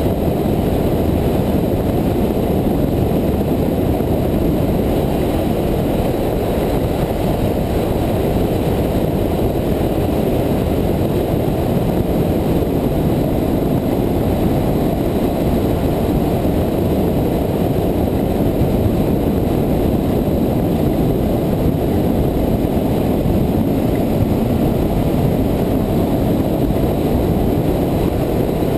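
Steady rush of wind noise and motorcycle engine from an onboard camera on a Honda VFR800 riding at road speed, an even roar mostly in the low range with no clear changes of pitch.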